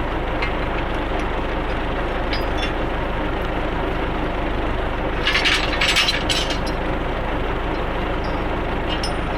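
Tractor engine running steadily under load while pulling field rollers, with a short burst of rattling knocks about five to six and a half seconds in and a few lighter clicks.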